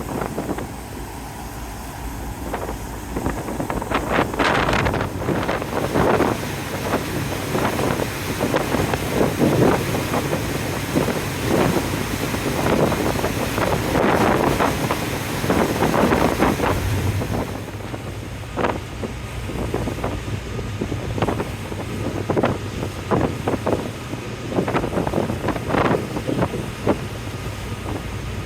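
Wind gusting hard across the microphone on a ferry's deck, in irregular swells, over the ship's steady low engine drone.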